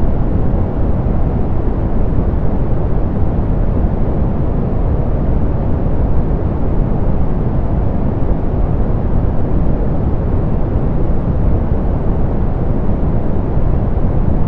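Steady soft pink noise, an even rushing hiss weighted toward the low end with the highs rolled off, unchanging throughout.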